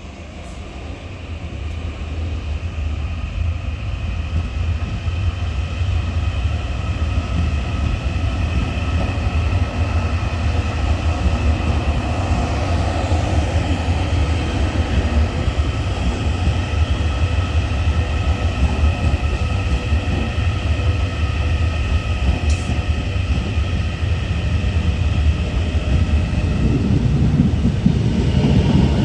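Taiwan Railway electric multiple-unit commuter train moving through the station. Its rumble grows steadily louder, with a steady electric whine held over it.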